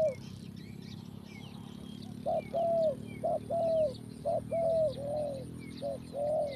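Doves cooing: repeated phrases of a short note followed by a longer held note, starting about two seconds in and going on through the rest. Faint chirps of small birds are heard behind.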